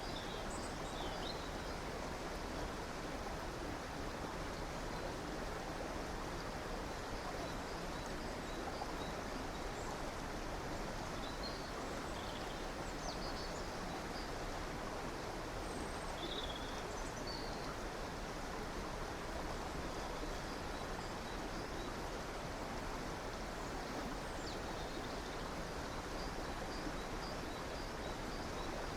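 Steady rushing of river water, with faint, scattered high chirps of small songbirds over it.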